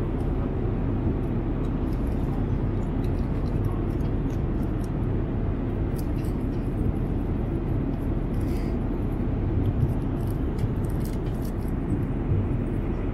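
Steady low rumble inside a moving vehicle, even and unbroken, with faint light ticks over it.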